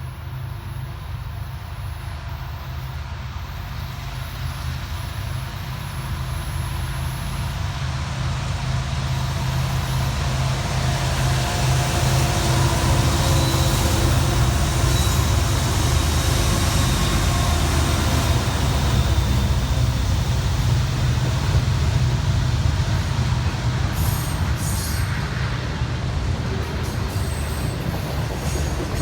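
A Norfolk Southern SD70ACe diesel-electric locomotive's engine (a 16-cylinder two-stroke EMD 710) rumbles steadily and grows louder as the train approaches. It is loudest for about ten seconds in the middle as it goes by, then the train's cars roll past.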